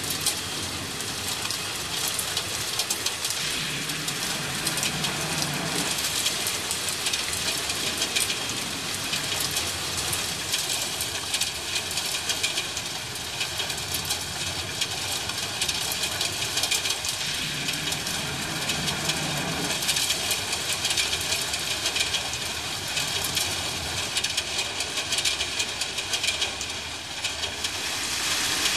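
Steady rain falling, an even hiss throughout, with two short low rumbles, one about four seconds in and one about seventeen seconds in.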